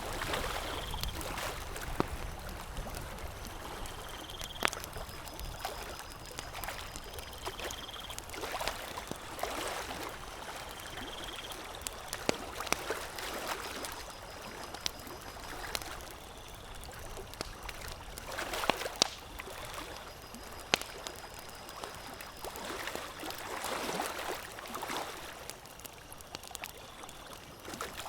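Campfire crackling, with scattered sharp pops, over a soft wash of lake water that swells and fades every few seconds.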